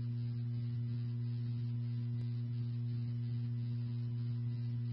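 Low, steady electrical hum with faint hiss from a police scanner's audio, with no radio transmission coming through.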